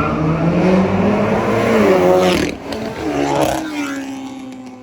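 A car engine revving hard, its pitch rising and falling, with one last rev about three and a half seconds in before it fades away.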